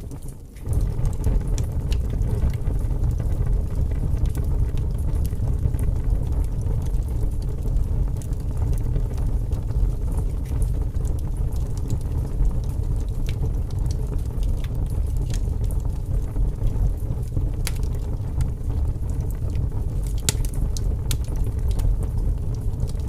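Wood fire burning in a fireplace: a steady low rumble of the flames with scattered sharp crackles and pops, a few louder pops near the end.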